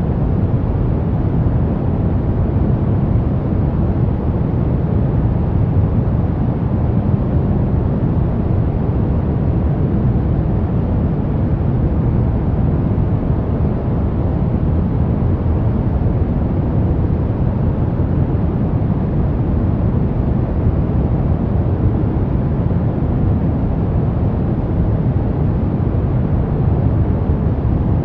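Steady pink noise: an even, unchanging rushing hiss, strongest in the low end.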